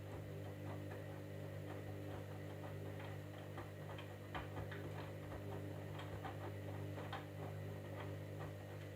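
Candy washing machine running with a steady low hum and many irregular light ticks and clicks.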